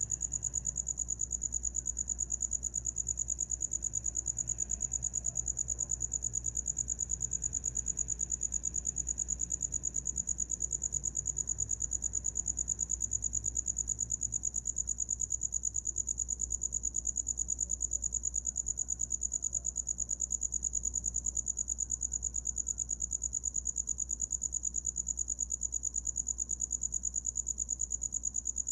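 A cricket chirping steadily: a fast, even pulsing at one high pitch that never lets up.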